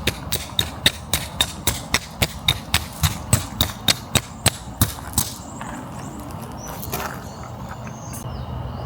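A run of sharp, evenly spaced knocks, about four a second, that stops about five seconds in.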